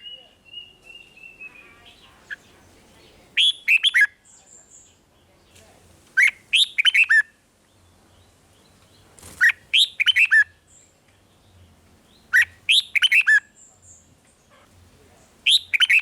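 Red-whiskered bulbul singing: a short run of quick, falling whistled notes, about a second long, repeated roughly every three seconds, five times.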